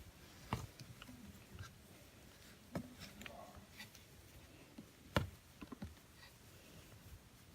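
A few soft knocks and clicks of handling against a quiet room, the loudest about five seconds in.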